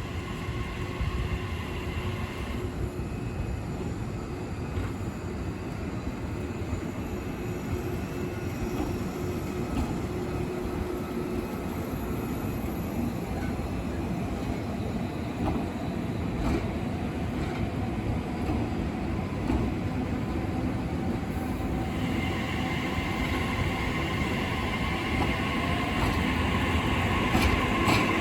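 Train running on the line, a steady rumble with faint high whining tones, growing gradually louder.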